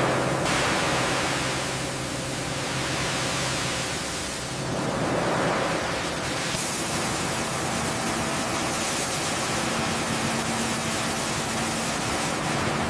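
Large fuel-fired machinery starting up on liquid fuel: a loud, steady rushing roar that comes in suddenly, with a low hum underneath.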